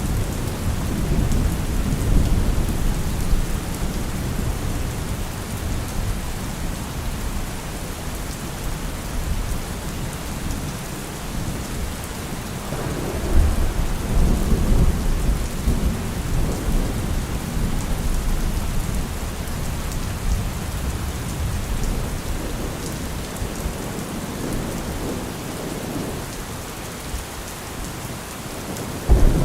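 Steady rain with rolling thunder: a constant hiss of rain, with low rumbles swelling and fading, strongest about a third of the way through and again about halfway through.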